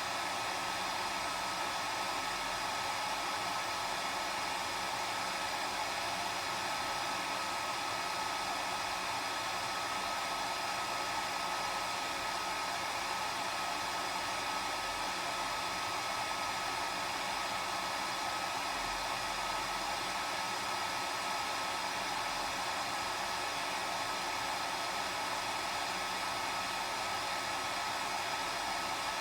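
Hair dryer running steadily, a constant airy rush with a steady whine from the motor and fan.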